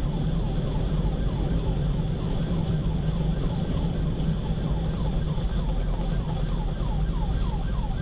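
Police car siren in a fast yelp, a falling sweep about three times a second, over steady engine and road rumble from the pursuing patrol car.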